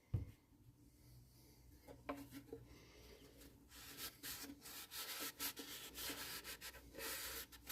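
A short knock, then hand rubbing on the wooden ukulele body, the strokes growing steadier and louder from about four seconds in: a pad working a shellac 'shine juice' finish.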